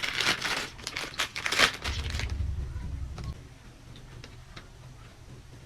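Plastic packaging crinkling and tearing as a small item is unwrapped by hand, busy for about the first two seconds, then quieter handling with a few faint clicks.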